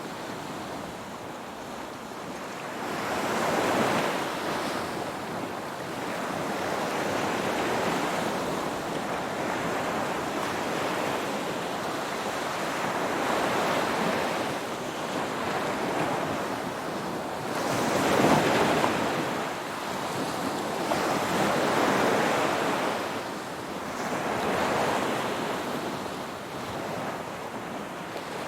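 Ocean surf: waves breaking and washing in, a steady rush of water that swells and falls back about every four seconds. The biggest surge comes about two-thirds of the way through.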